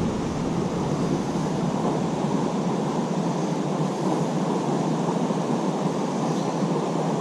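Steady rushing of river water, an even roar with no breaks.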